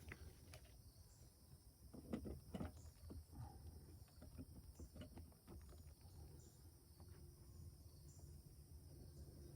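Near silence outdoors, with a low steady rumble and a few faint knocks and rustles of handling about two seconds in.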